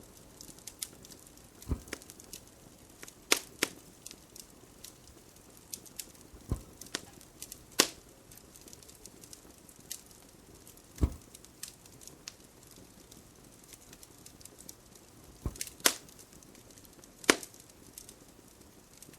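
Wood fire in a fireplace crackling: irregular sharp pops and snaps over a faint hiss, a few of them with a dull low thud.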